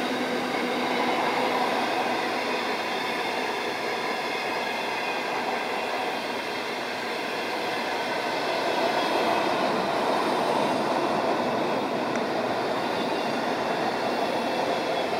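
Container freight train's wagons passing close by at speed: a steady noise of steel wheels running on the rails, without break.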